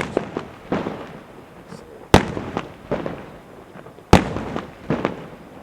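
Fireworks going off as a series of sharp bangs. The three loudest come about two seconds apart, with smaller cracks between them, and each bang trails off in an echo.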